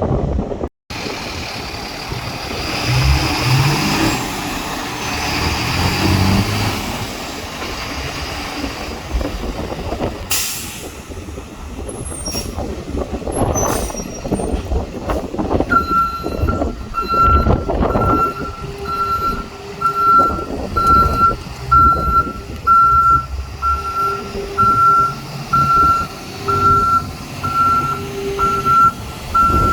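Jet fuel truck's engine running, with a brief sharp burst of noise about ten seconds in. From about halfway, its backup alarm beeps steadily about once a second as it reverses.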